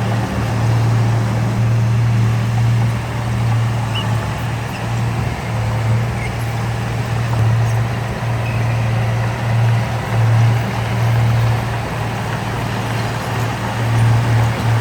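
Heavy diesel engine of earthmoving machinery running steadily, a low drone that swells and eases slightly.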